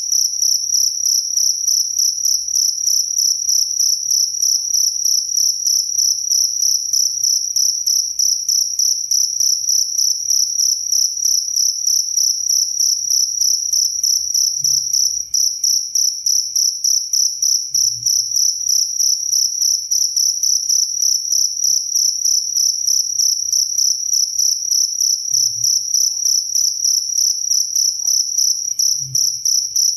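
Cricket chirping without pause: a single high-pitched trill pulsing in an even, rapid rhythm.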